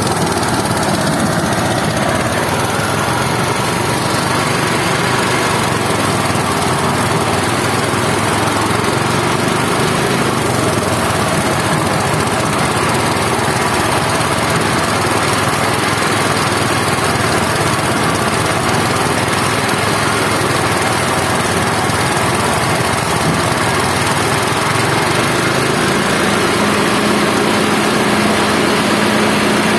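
Small engine-driven rice harvesting machine running steadily and loudly. A steady low drone joins in near the end.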